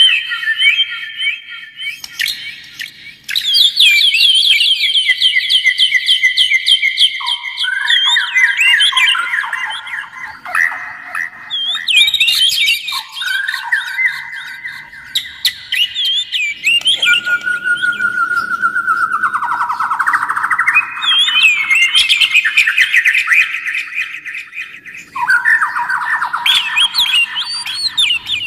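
A Copsychus songbird singing loudly without a break: a run of varied phrases of whistles, rapid repeated notes and chattering trills, each phrase at a different pitch.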